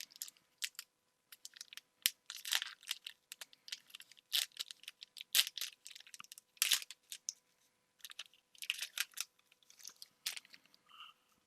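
Foil booster-pack wrappers crinkling and tearing, with trading cards being handled and flicked through in irregular crackly bursts and sharp clicks.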